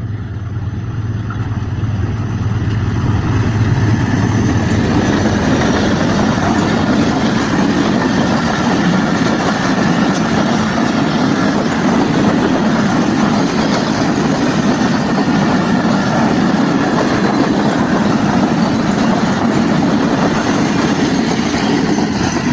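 Shalimar Express passenger train running on the rails: a loud, steady rumble of wheels and coaches that builds over the first few seconds, with a low hum that fades out about five seconds in.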